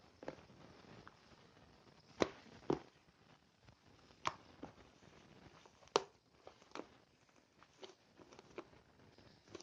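Scattered small clicks and taps at an irregular pace, a few sharper ones standing out, over a quiet room.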